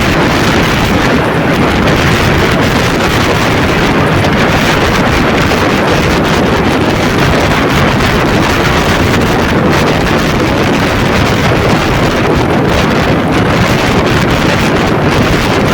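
Loud, steady rush of wind over the microphone from a vehicle moving at speed, with the vehicle's running and road noise buried in it.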